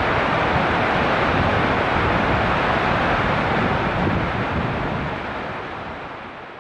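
Jet engine noise from a landing Boeing 737-800, a loud, steady rush that fades away over the last two seconds.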